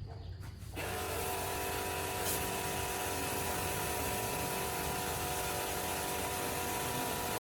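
A power tool switching on about a second in and running steadily at constant speed, with a steady whine.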